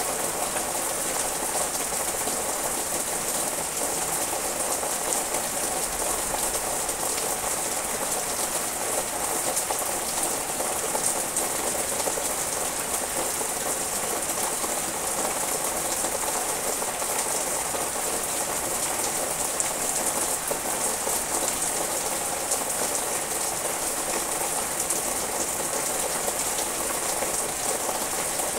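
Steady rain falling on tree leaves and garden foliage: an even, unbroken hiss of countless drops that neither builds nor fades.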